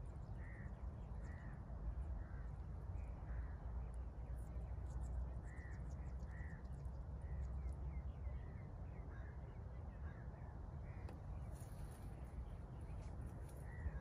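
Short bird calls, each a brief rise and fall in pitch, repeating about once a second over a steady low rumble.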